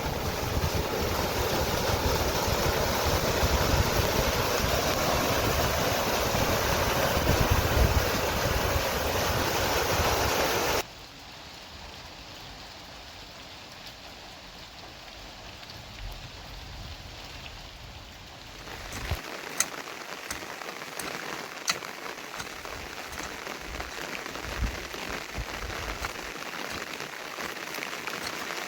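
Steady rain falling, in three abruptly cut stretches: first loud with a low rumble, then about a third of the way in a sudden drop to a quieter, even hiss, and from about two-thirds of the way through rain with single drops clicking sharply.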